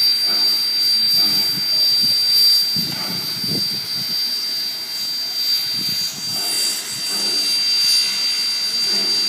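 Steam locomotive standing with steam hissing steadily, a thin high whine running through the hiss, with faint voices underneath.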